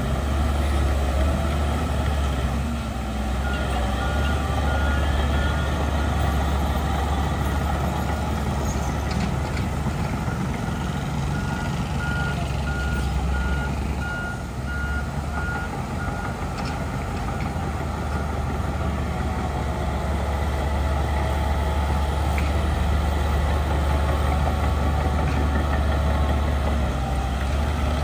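Heavy diesel earthmoving machinery running steadily with a deep rumble. A reversing alarm beeps in two runs, a few seconds in and again around the middle.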